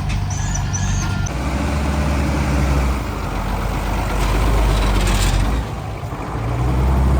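Heavy diesel engine of earthmoving equipment running under load, its note shifting about a second in and again near the end, with a brief hiss about five seconds in.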